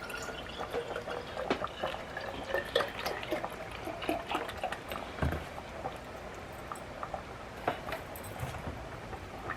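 Chicken stock being poured into a pot of chili ingredients, with irregular splashing and small knocks.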